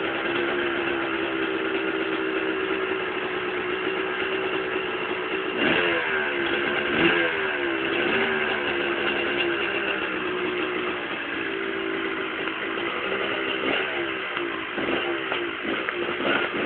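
Kawasaki KDX 250 two-stroke single-cylinder engine running at idle, with a few quick throttle blips about six seconds in and a few more near the end.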